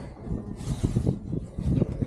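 Rustling and rubbing on a body-worn microphone with irregular muffled thumps, as of footsteps climbing a stone staircase; a brief hiss about half a second in.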